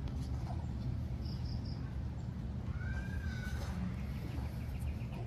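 Birds chirping: three quick high chirps about a second in, then a single whistled call around three seconds in, over a steady low rumble.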